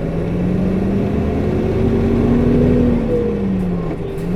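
Onboard running sound of a 2008 Nissan Diesel (UD) Space Runner RA diesel city bus accelerating. The engine note rises for about two and a half seconds, then falls away near the end as at a gear change. The viscous coupling fan is engaged throughout, and its noise is high for the engine speed.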